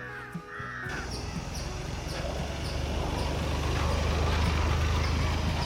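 A motor vehicle's engine running with a steady low hum, growing louder over a few seconds and easing slightly near the end, as if driving close by. A brief crow-like caw comes just before it starts.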